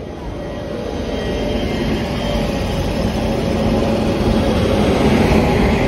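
Express passenger train's coaches rolling along the platform, a steady rumble of wheels on rail that grows gradually louder.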